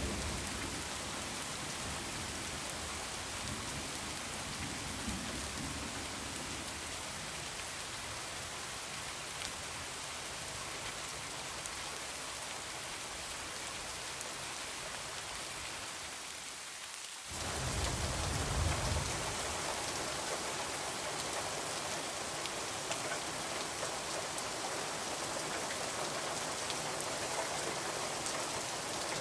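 Heavy rain falling in a steady hiss, with a low rumble of thunder fading away near the start. About halfway through the sound changes abruptly and another short low rumble follows.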